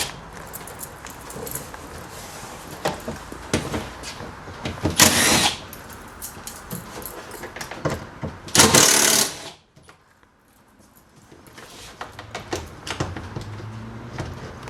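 Cordless drill-driver with a Phillips bit backing out door trim screws in two short bursts, about five and nine seconds in, between small clicks and knocks of handling the plastic door trim.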